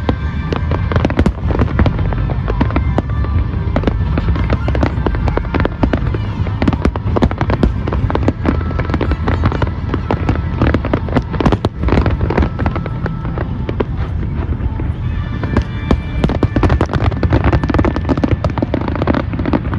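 A fireworks display going off: a dense, continuous run of bangs and crackles, with music playing underneath.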